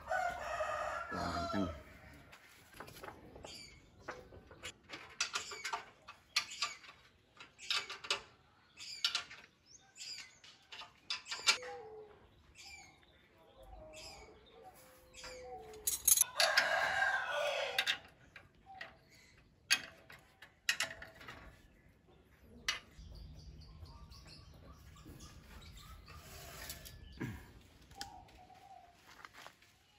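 Birds calling on and off, with one longer, louder call about sixteen seconds in, among a few sharp light knocks. A low steady hum joins for the last several seconds.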